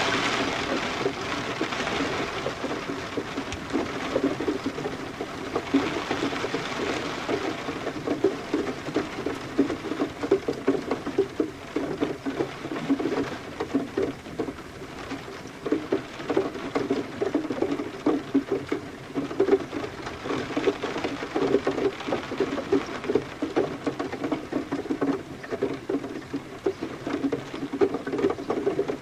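Rain pattering: a dense, irregular stream of drops hitting a surface, under a softer hiss of falling rain that is stronger at first and swells again about six seconds in.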